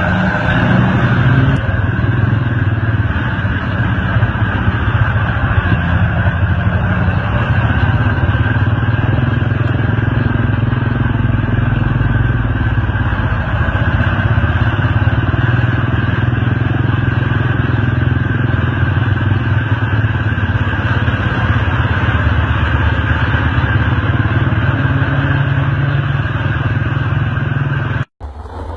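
Large truck engine running hard and steadily, a loud continuous rumble that cuts off suddenly near the end.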